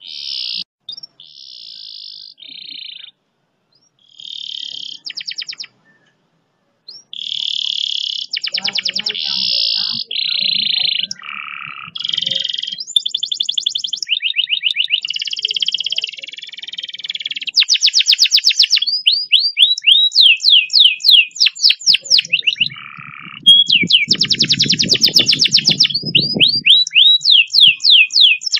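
Domestic canary singing, a string of rapid trills and rolls that switch to a new phrase every second or so, with long runs of fast, repeated downward-sweeping notes in the second half. A low rumble sits under the song for a few seconds about three-quarters of the way through.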